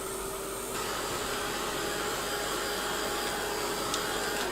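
A small handheld electric blower running steadily, its motor tone stepping up slightly in pitch about a second in.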